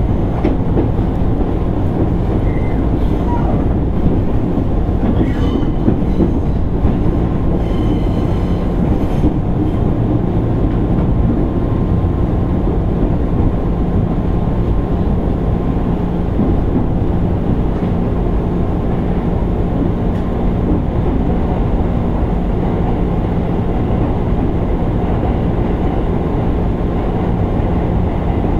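Running noise heard inside a JR East 205 series 600 subseries electric motor car: a steady rumble of wheels on rail with a constant low hum. There are a few brief high squeals and clicks in the first ten seconds or so.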